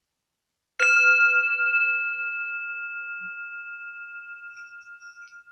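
A meditation bell struck once, about a second in. It rings with a clear tone that fades slowly, wavering in loudness as it dies away, marking the end of a guided meditation.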